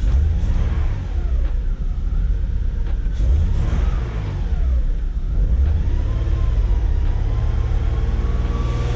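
BMW E36 engine running just after its cleaned, refreshed fuel injectors were refitted, with fuel being bled through the rail. The revs rise and fall several times, then settle to a steady idle about six seconds in.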